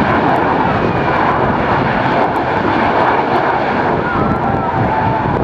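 Airliner engines running loud and steady, a dense rush of noise with a faint whine that slides slightly in pitch near the end.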